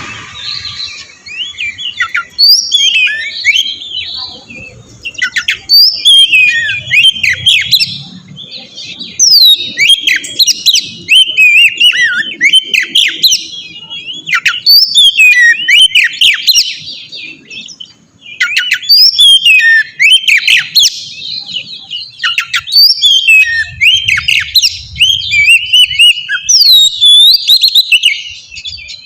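Oriental magpie-robin (kacer) singing: a loud, fast run of varied whistles, slurred notes and chirps, in phrases of a few seconds broken by short pauses.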